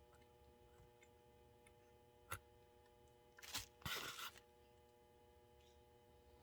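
Near silence broken by a single faint click, then about a second later a brief run of scraping and clicking as a small screwdriver works a tiny screw into an HO-scale model locomotive.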